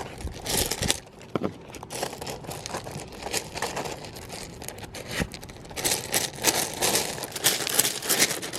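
A dog scrabbling and playing in loose rocks: a busy, irregular run of crunching and rattling.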